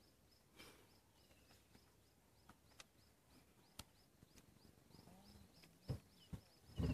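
Quiet bush ambience: a faint high chirp repeating about three times a second, with a couple of short falling bird whistles and a few soft clicks.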